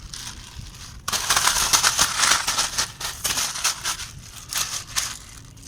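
Rain starting to come down hard, its drops crackling in a dense, irregular patter on a close surface; it begins suddenly about a second in and keeps up, rising and falling.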